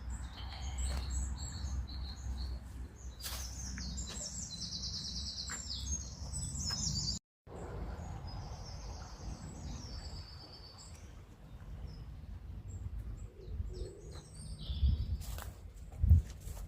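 Songbirds singing: rapid, high, trilled phrases repeated over and over, over a low rumble on the microphone. The sound cuts out for a moment about seven seconds in, and there is a short low thump near the end.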